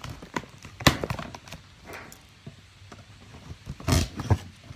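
Packing tape being cut on a mailed package, with sharp clicks and knocks as the package is handled. The loudest knock comes about a second in and a cluster of knocks near the end.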